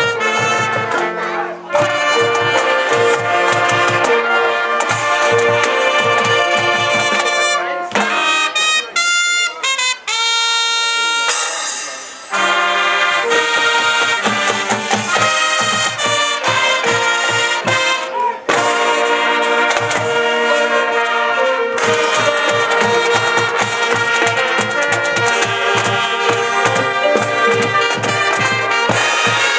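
Marching band playing: brass with drums keeping a steady beat. About a third of the way in the full sound drops away to a brief, thinner passage, then the whole band comes back in.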